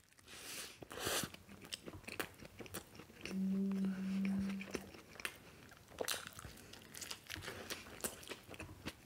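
A person chewing fast food close to the microphone, with many short wet clicks and crunches of the mouth. About three seconds in comes a closed-mouth hum of about a second and a half.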